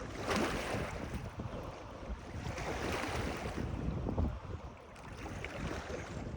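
Moving water washing and splashing, swelling twice, with low wind rumble on the microphone.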